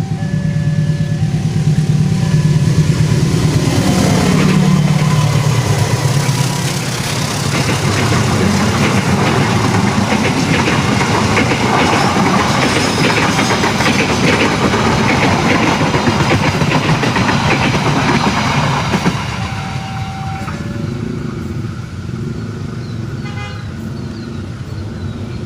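Diesel locomotive running hard as it passes, its engine note dropping about five seconds in, followed by the train's cars rolling by with a steady rush and clatter of wheels on the rails that eases off near the end.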